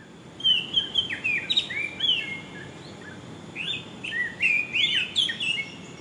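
Birds chirping and calling, with many short rising and falling notes in quick succession from about half a second in, over a low, steady outdoor background.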